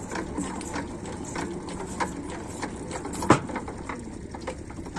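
Single-cylinder Rajkot-type 8 hp diesel pump-set engine running with a rapid, even clatter, and one loud knock a little over three seconds in.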